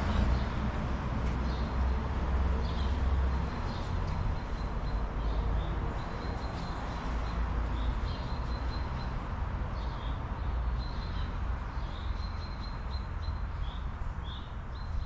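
Small birds chirping in short high calls, repeated on and off throughout, over a steady outdoor background hiss. A low rumble dies away about three seconds in.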